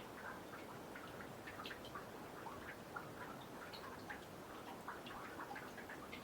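Meltwater dripping from snow on a boardwalk into a nearly frozen pond: many small, irregular drips, several a second, over a faint steady background.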